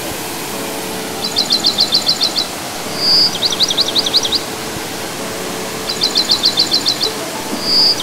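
A songbird singing two alternating phrases, one about every two seconds: a quick run of about ten short, high notes, and a clear whistle followed by a run of down-slurred notes. Underneath is a steady rushing of falling water and faint sustained low tones.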